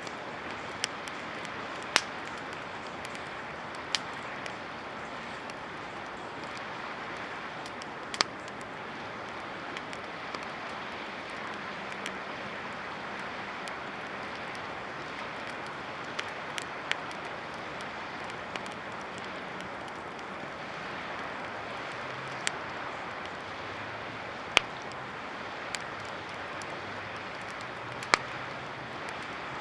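Wood campfire crackling, with sharp irregular pops every second or two over a steady rushing hiss.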